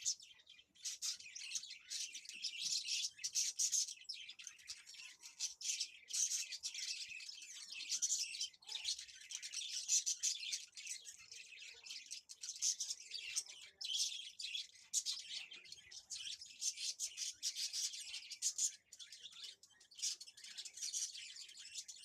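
Small birds chirping continuously in a dense, busy chatter of short high calls, pausing briefly a few times.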